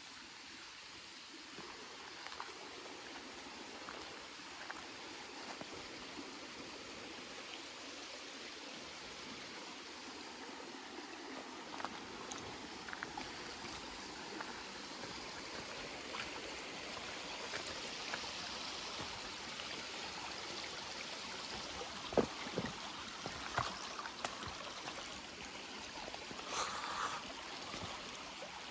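Steady rushing of a nearby stream, with a few sharp knocks over it near the end.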